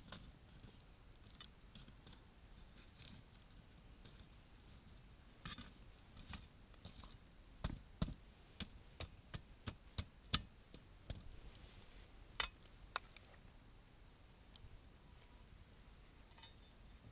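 Wood campfire crackling: scattered sharp pops and snaps, thickest in the middle, with two loud cracks at about ten and twelve seconds.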